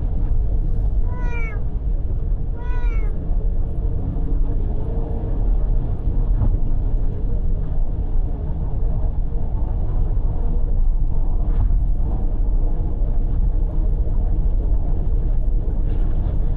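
A cat meows twice, two short rising-and-falling calls about a second and a half apart near the start. They sound over the steady low rumble of a car driving on the expressway.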